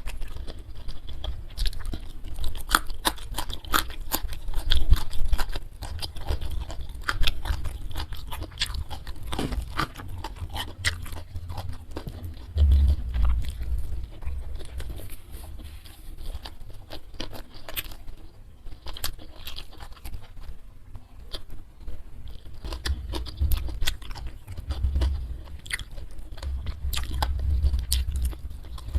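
Close-miked chewing and crunching of food, a dense run of short crisp clicks that thins for a few seconds past the middle.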